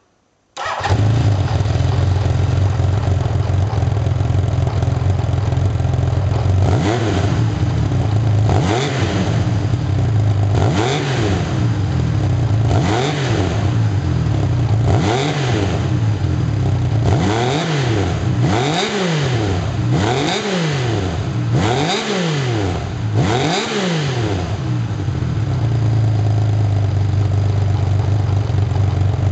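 Honda CBX1000's inline-six engine breathing through a reproduction stock muffler: it fires up abruptly, idles steadily, then takes about ten short blips of the throttle, each a quick rise and fall in pitch, before settling back to a steady idle.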